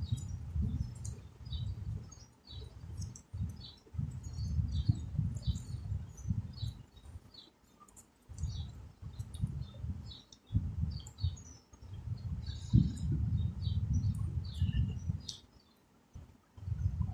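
Small birds chirping repeatedly in the background, many short high chirps, over irregular stretches of louder low rumbling noise.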